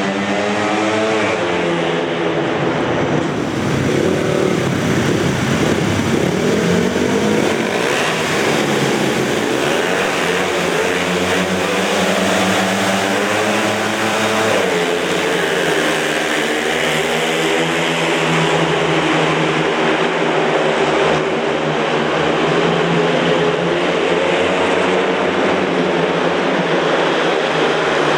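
Several speedway motorcycles racing a heat, their single-cylinder 500 cc methanol engines revving hard, with overlapping engine notes rising and falling in pitch.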